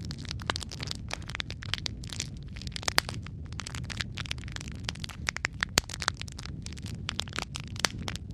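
Logs burning in a fireplace: a dense, irregular crackling with many sharp pops over a steady low rumble of the flames, with two louder pops, about three seconds in and near six seconds.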